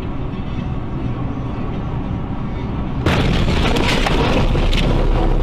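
Steady rumble of a moving vehicle's road and engine noise, as picked up by a dashcam. About three seconds in it cuts abruptly to a louder, hissier rumble.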